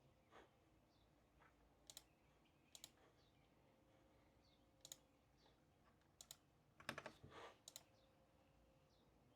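Sparse sharp clicks of someone working at a desk, single and in pairs, with a quicker cluster about seven seconds in, over near silence.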